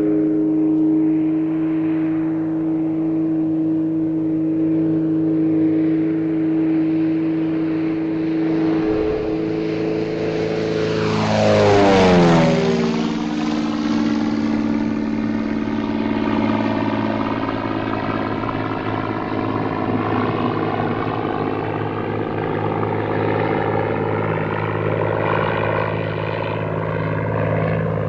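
An engine-driven vehicle passing by: a steady engine drone grows loudest about twelve seconds in, its pitch dropping as it goes past, then carries on as it moves away.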